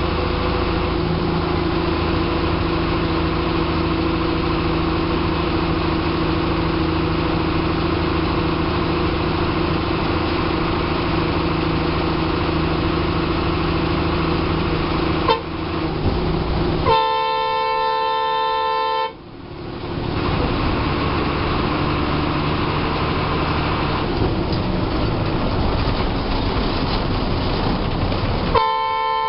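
Bus diesel engine running steadily while driving, heard from the driver's cabin. A horn sounds once for about two seconds past the middle, and again near the end.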